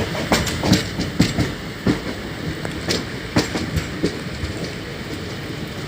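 Circar Express passenger train running on the rails with a steady rumble. A run of sharp, irregular clanks from the wheels comes in the first four seconds, then the running evens out.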